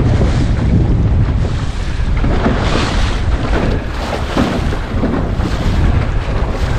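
Gusty wind buffeting the microphone, with waves splashing and rushing past the hull of a small centreboard sailing dinghy. There are several louder surges of splash.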